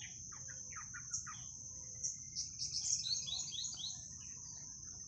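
Small birds chirping: a scatter of short notes in the first second, then a quick run of notes stepping down in pitch a couple of seconds in. Beneath them runs a steady high-pitched insect drone.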